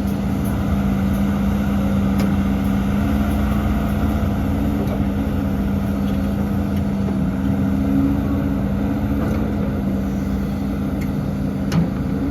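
Heavy diesel engine of earthmoving machinery running steadily with a constant drone, with a couple of short knocks near the end.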